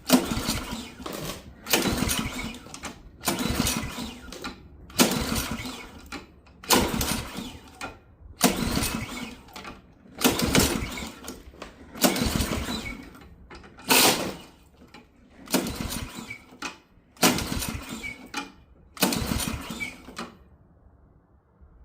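Ariens AX 208 snowblower engine being pull-started again and again, about a dozen cranking pulls a second or two apart that stop near the end; the engine turns over but never fires, and the owner blames stale gas from years of sitting.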